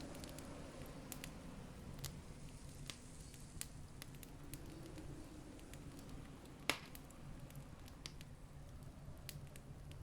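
Campfire crackling: irregular sharp pops and snaps of burning wood, one louder pop about two-thirds of the way through, over a low steady rumble.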